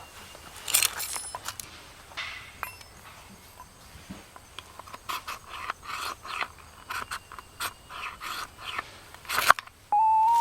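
A run of short scrapes, clicks and knocks from objects being handled, with a short steady tone near the end.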